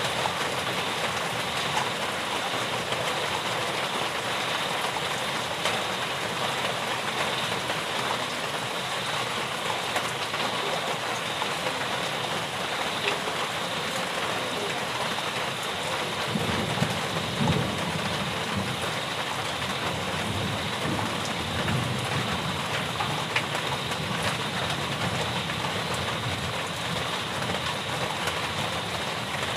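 Steady rain falling, an even hiss of drops. A low rumble rises under it about halfway through and fades again some six seconds later.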